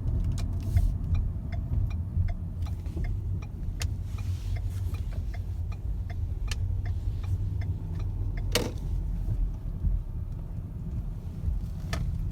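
2012 Ford Fusion 2.5L moving slowly, with a steady low rumble and small ticks and rattles. A sharp clunk comes about eight and a half seconds in and a lighter one near the end: the front suspension clunk that was traced to a worn lower ball joint on the passenger side.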